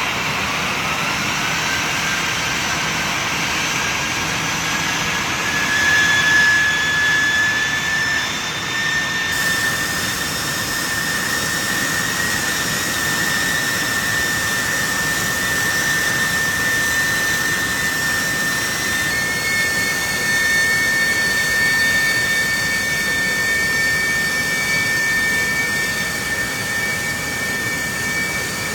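Airbus A319 turbofan engine running on the ground during a vibration check run after a fan blade replacement. Its whine rises over the first couple of seconds, then holds steady over a continuous rush of jet noise. About two-thirds of the way through, a higher whine joins in, as the engine speed steps up.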